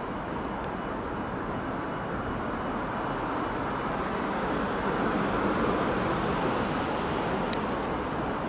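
EP20 dual-current electric locomotive hauling an express passenger train as it approaches at speed: a steady rushing noise of wheels and running gear that grows a little louder, with one sharp click near the end.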